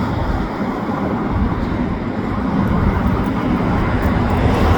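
Steady low rumble of a slow-moving CN autorack freight train rolling past, mixed with highway traffic.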